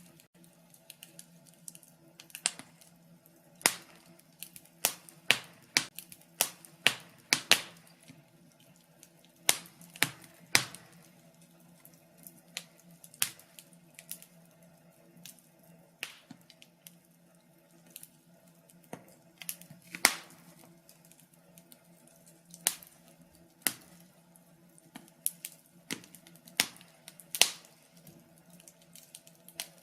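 Wood fire crackling: irregular sharp pops and snaps, some in quick clusters, over a faint steady low hum.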